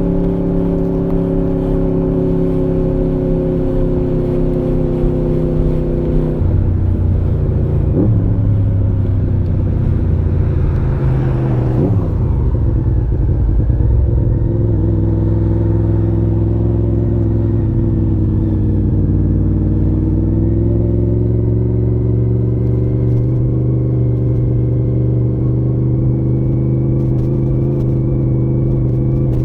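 1993 Honda VFR750 (RC36) liquid-cooled V4 engine running steadily at low revs through its modified stock muffler. The pitch drops slightly about six seconds in and creeps back up a little later on, with a brief swell of other noise around the middle.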